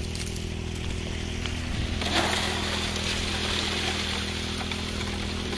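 Small four-stroke Honda WX15 water pump engine running steadily. About two seconds in, a hiss joins it and grows louder.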